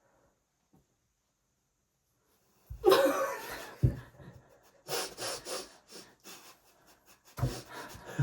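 Stifled, breathy laughter: a couple of quiet seconds, then three clusters of breathy snorts and exhalations, some starting with a low knock.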